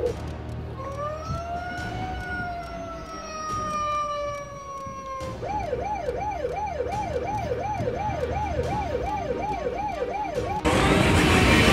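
Electronic police siren: one long wail that rises and then slowly falls, then a fast yelp warbling about two to three times a second. Near the end it is cut off by a sudden, louder rushing noise.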